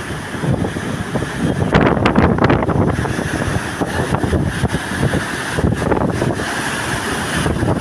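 Strong wind buffeting the microphone over the rush of Baltic Sea surf, with a louder gust about two seconds in.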